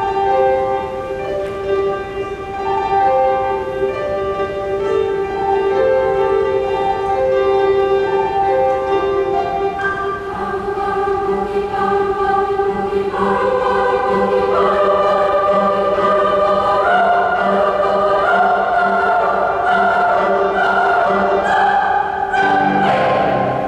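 Choir singing with pipe organ: a long held note under a melody, more voices entering about ten seconds in, swelling to a full closing chord that breaks off near the end.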